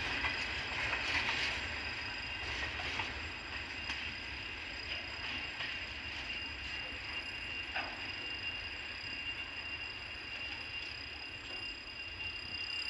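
Freight train rolling away: a few faint wheel clicks over the rail joints in the first few seconds, then a steady rumble that slowly fades.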